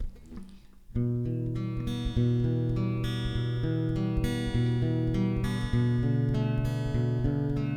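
Acoustic guitar starting the introduction of a slow original song about a second in, playing sustained chords.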